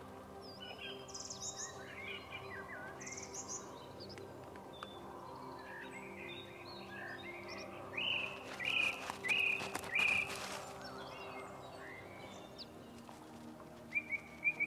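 Small songbirds singing and chirping: short rising and falling notes throughout, loudest as a run of bright repeated chirps about eight to ten seconds in and again near the end. A steady low hum of sustained tones lies underneath.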